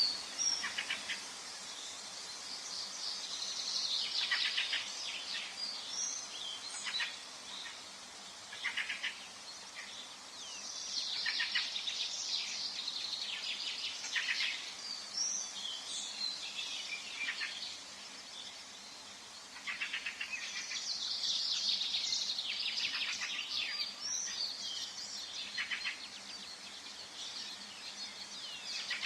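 Forest ambience of several songbirds chirping and trilling in overlapping bursts, over a faint steady hiss.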